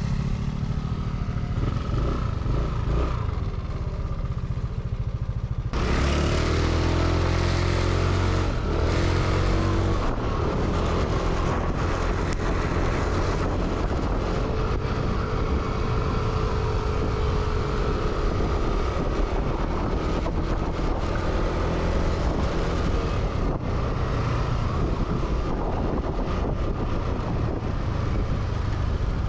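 Motorbike engine idling, then pulling away about six seconds in with rising revs, and running steadily at riding speed with wind rushing over the microphone.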